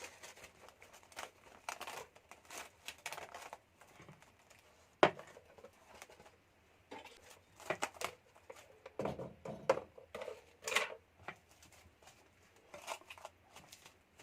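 Plastic cling film being pulled, torn and crinkled as it is stretched over the mixture, in irregular rustles, with one sharp click about five seconds in.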